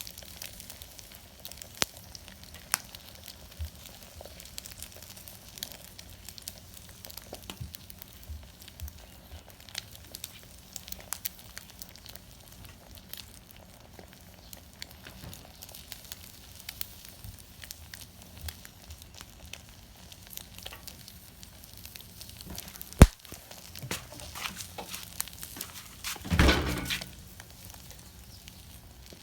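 Small wood fire crackling with scattered pops, one sharp pop about 23 seconds in, and a louder burst of noise around 26 to 27 seconds.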